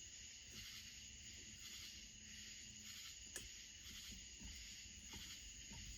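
Near silence: a faint steady high-pitched hiss, with a single faint click about three and a half seconds in.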